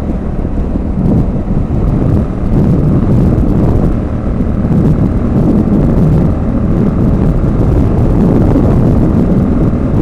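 Motorcycle running at a steady motorway cruise of about 70 mph with the throttle locked, under heavy wind buffeting on the microphone. The noise is loud and unbroken, mostly low.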